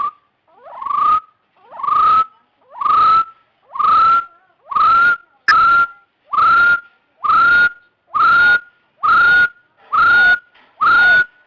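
Hill partridge (Arborophila) calling: a steady series of short, clear whistles, each rising in pitch, about one a second and slightly quickening.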